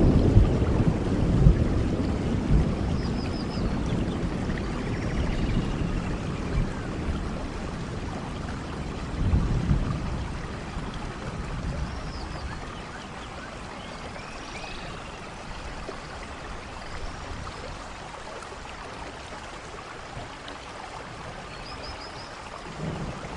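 Steady rain falling in a forest, with low thunder rumbling at the start and dying away, then swelling again briefly about nine seconds in. A few short high chirps sound over the rain now and then.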